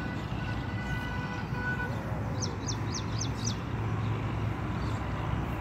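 A bird calls a quick run of five short notes, each falling in pitch, about halfway through, over a steady low background rumble.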